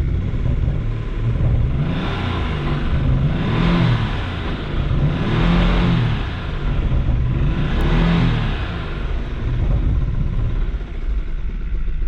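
1992 Mitsubishi 3000GT VR4's twin-turbo 3.0-litre V6 idling and being revved about four times, its pitch rising and falling with each blip. The engine has a noise that the owner believes comes from the top end.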